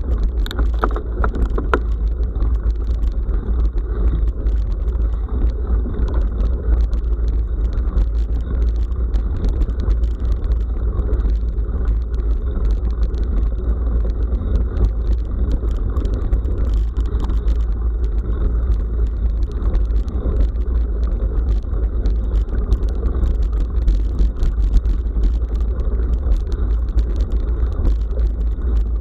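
Steady wind rumble on an action camera's microphone, with rattling and clicking from a bicycle riding a rough forest road.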